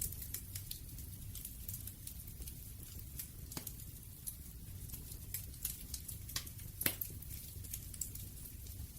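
Wood fire crackling, with frequent sharp pops and snaps over a low steady rumble of burning; one louder pop about seven seconds in.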